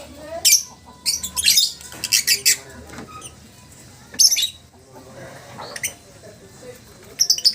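Lovebird calling in several short groups of shrill, high-pitched chirps and squawks, each group well under a second long.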